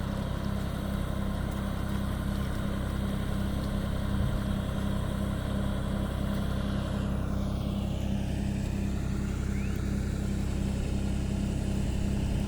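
John Deere tractor's diesel engine running steadily under load while puddling a wet paddy field, a constant low drone.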